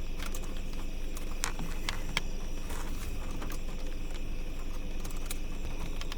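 Night-time outdoor ambience: a steady low rumble under a steady high insect-like drone, with a few scattered sharp clicks.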